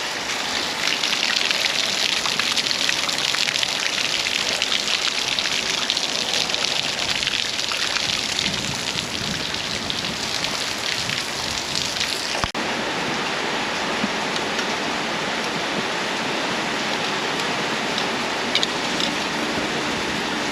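Steady rain falling, a dense hiss of many drops. About twelve seconds in, the sound shifts abruptly to a smoother, slightly quieter hiss.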